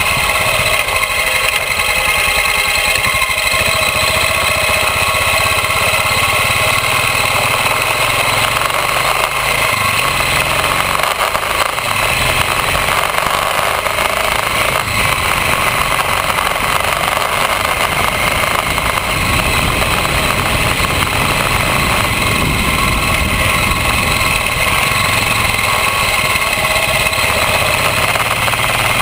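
Royal Enfield motorcycle engine running steadily, with a change in its low rumble about ten seconds in.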